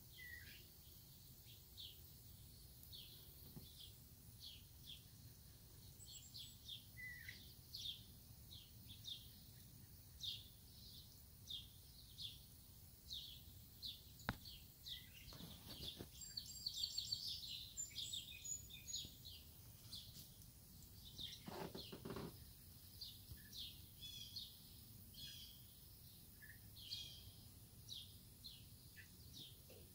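Faint birds chirping in a garden: short, high, downward chirps repeated every second or so, busiest around the middle. A single click and two brief rustles come near the middle.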